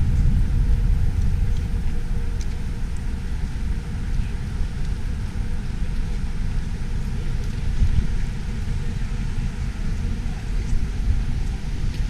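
Wind buffeting the microphone in a snowstorm: a steady, irregularly gusting low rumble.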